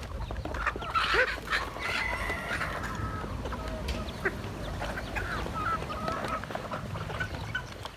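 Mixed poultry flock of geese, ducks and chickens calling over one another, with honking geese loudest about a second in, over a steady low rumble.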